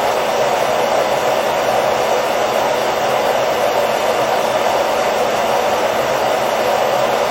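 Hair dryer running continuously: a steady, unchanging rush of air and motor noise, played as white noise for a baby's sleep.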